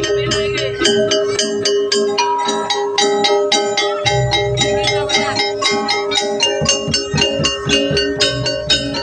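Javanese jaranan gamelan music: fast, even strikes on metal gong-chimes or metallophones over one steady held tone, with low drum beats at the start, about four seconds in and again near the end.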